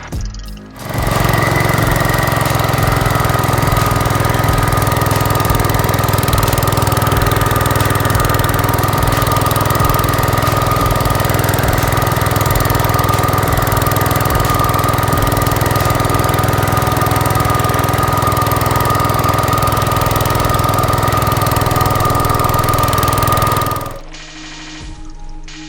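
Gravely tractor engine running steadily while driving its snow blower, with a constant whine over the engine sound. It comes in sharply about a second in and cuts off suddenly near the end.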